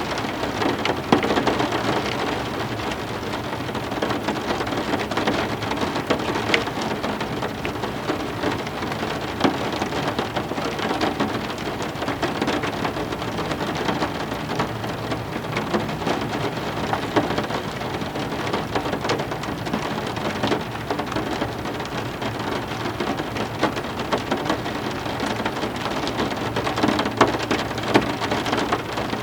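Heavy rain falling steadily, with many individual drops ticking sharply on hard surfaces.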